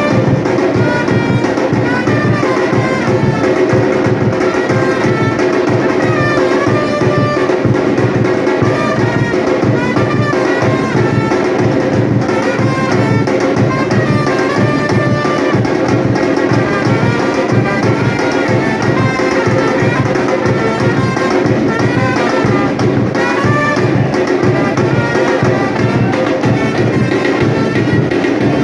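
Batucada drum ensemble playing a dense, driving rhythm, with a brass melody over the drums.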